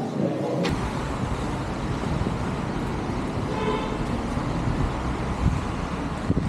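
Outdoor street ambience: a steady rumble of passing road traffic, with a short pitched sound about three and a half seconds in.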